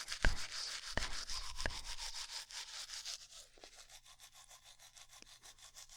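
Close-up ASMR toothbrushing sound: rapid scrubbing back-and-forth strokes with a bright, scratchy hiss, a few harder strokes in the first two seconds, growing quieter about halfway through.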